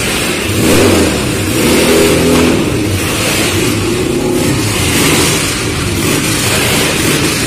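Several motorcycle engines running together and revving, their pitch rising and falling as the throttles open and close, with louder surges about one and two seconds in.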